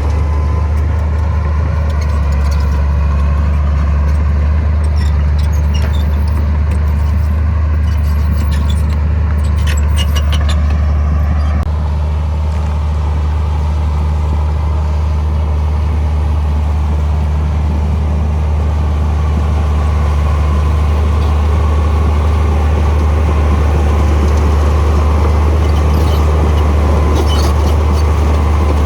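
Komatsu bulldozer's diesel engine running steadily, a deep constant drone, with bursts of metallic clinking about a third of the way in and again near the end.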